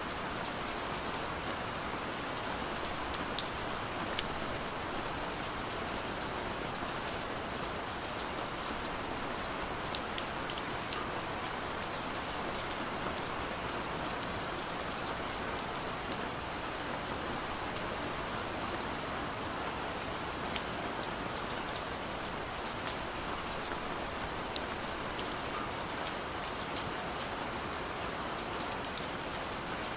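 Steady gentle rain falling, an even hiss with many faint scattered drop ticks throughout.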